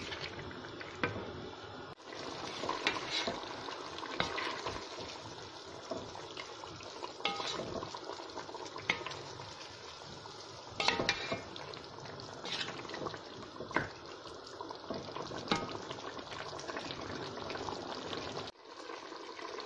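Marinated beef cooking in a pot with a steady wet hiss as it stews in its own released juices, broken by the knocks and scrapes of a spoon stirring it against the pot.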